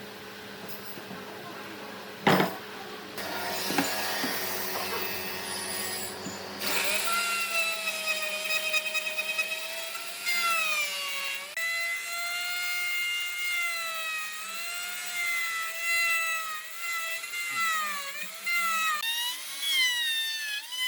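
A power tool working wood: first a noisy run with a sharp knock about two seconds in, then from about seven seconds a high motor whine whose pitch wavers and dips repeatedly as the tool is loaded.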